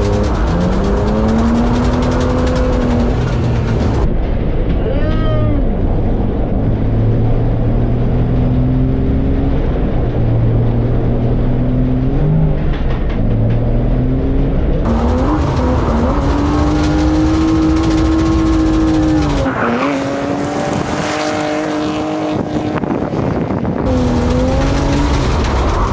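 BMW E36 328i's M52 straight-six engine revving hard, its pitch rising and falling again and again as the car is drifted, with tyre squeal.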